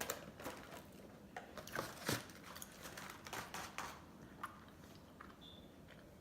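Close-up mouth sounds of eating ice cream: wet lip smacks and chewing, with a quick run of sharp smacks over the first four seconds or so that thins out to a few soft ones near the end.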